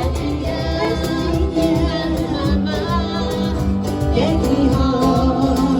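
A live band playing a song with a singer over a steady beat.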